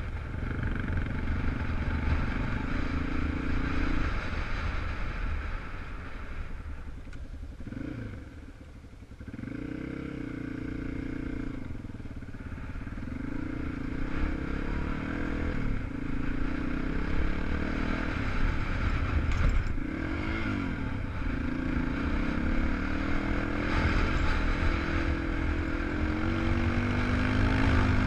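250 cc single-cylinder four-stroke enduro motorcycle ridden on a dirt track, its engine note rising and falling with throttle and gear changes. The engine drops off briefly about eight seconds in, then builds again and is loudest near the end.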